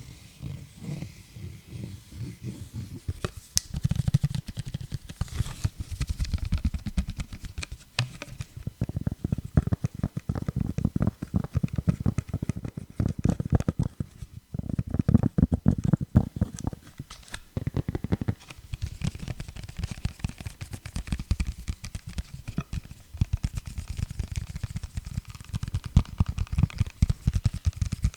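Rapid tapping close to a sensitive microphone: a dense, continuous stream of dull taps and knocks that comes in louder clusters.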